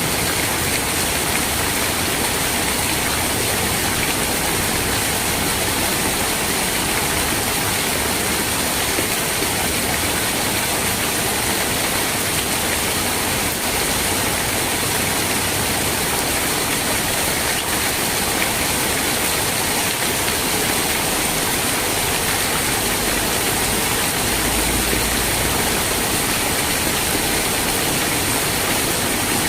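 Steady rain falling, an even unbroken hiss, with a brief low rumble near the end.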